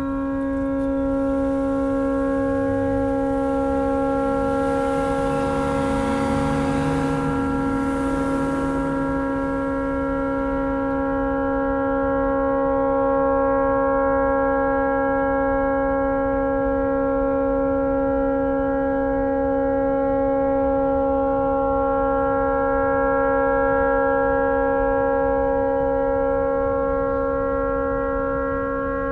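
A tugboat's horn stuck on, sounding one unbroken, steady multi-note tone that does not stop: the horn has malfunctioned and will not shut off. A brief rush of noise passes over it about five to nine seconds in.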